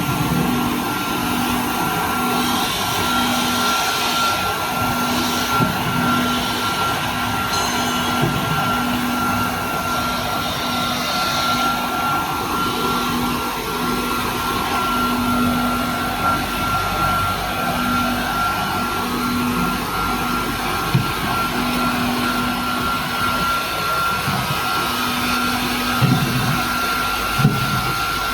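Corn washing machine running: a steady mechanical drone with a constant whine, and a few knocks near the end.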